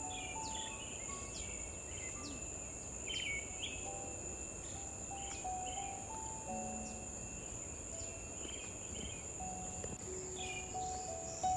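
Steady high-pitched insect drone with repeated short bird chirps, under soft background music of scattered held notes. A brief sharp knock comes near the end.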